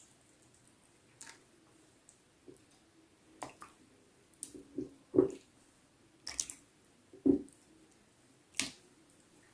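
Raw chicken pieces being squished and turned by hand in a wet milk-and-spice marinade: a string of short squelches, the loudest about five and seven seconds in.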